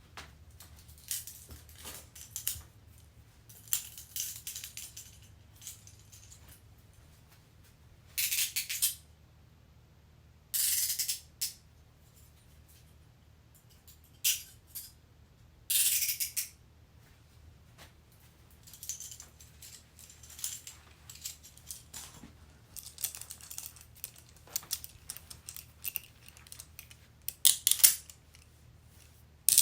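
Metal handcuffs being worked: bursts of rapid ratcheting clicks and rattling with short pauses between, the loudest about 8, 11 and 16 seconds in and again near the end.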